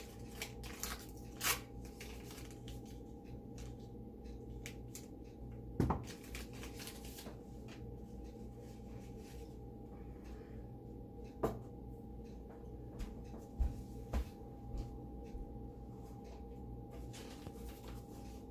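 Quiet kitchen handling of butter and utensils: a few separate knocks and clicks, about five over the stretch, over a steady low hum.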